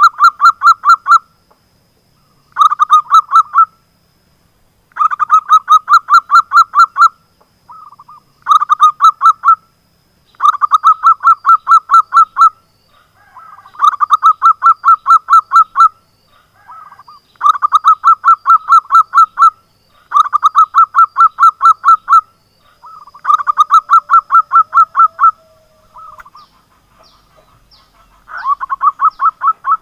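Zebra dove (perkutut) calling: about ten loud bursts of rapid staccato cooing notes, each burst a second or two long, with a few softer notes between some bursts.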